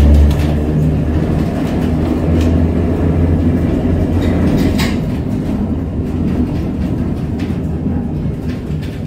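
Vintage electric tram running on its rails: a steady low rumble and hum, with a few sharp clicks and knocks from the wheels and track.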